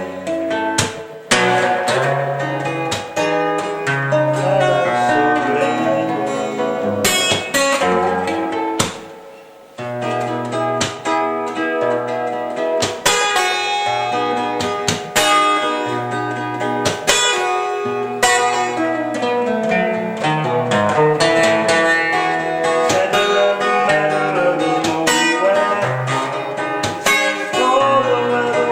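Acoustic guitar playing a plucked instrumental piece, with bass notes under a melody; about nine seconds in, the notes die away into a brief pause before the playing picks up again.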